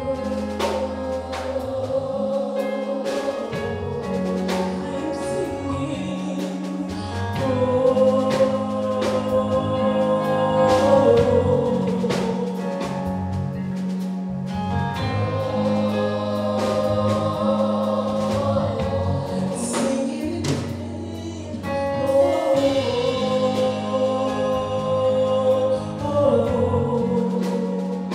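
Gospel choir singing with band accompaniment: sustained group vocals over a bass line and steady drum beat.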